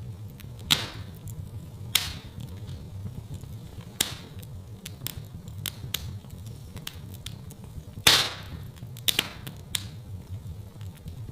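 Fireplace wood fire crackling: a low, steady rumble of burning with scattered sharp pops at irregular moments, the loudest pop about eight seconds in and a quick pair soon after.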